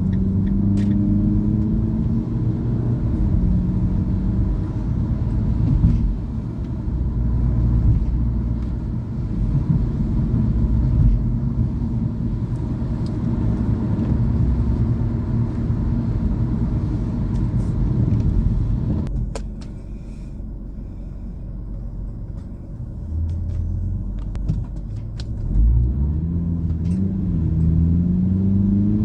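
A car driving, heard from inside the cabin: a steady low engine and road rumble, with the engine note rising as it accelerates near the start. About two-thirds through it drops quieter as the car slows, then the engine climbs again near the end as it picks up speed.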